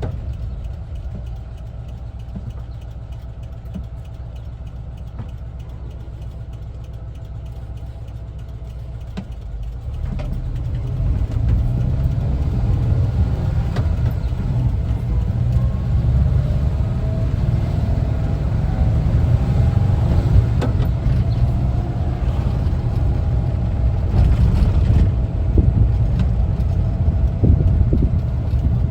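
1974 Volkswagen Westfalia camper's air-cooled Type 4 flat-four engine running low and steady at first, then louder from about ten seconds in as the van pulls away and accelerates, with the engine note rising.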